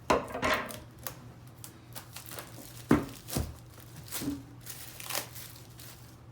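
A package being opened by hand: cardboard and packaging tearing and crinkling, with several sharp knocks in between.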